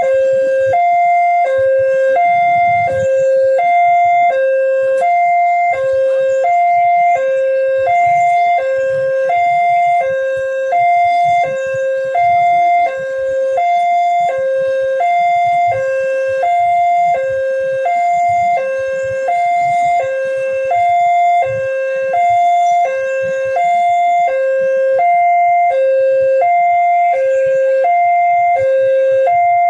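Railway level-crossing warning alarm sounding continuously: an electronic two-tone hi-lo signal, switching between a higher and a lower tone about twice a second, warning that a train is approaching and the barriers are closing.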